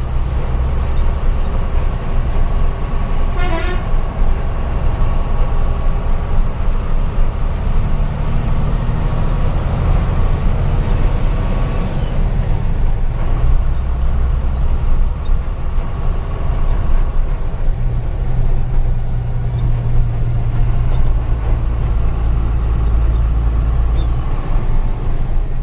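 Diesel truck engine running under way, heard from inside the cab, its low drone shifting in pitch a few times. A short horn toot sounds about three and a half seconds in.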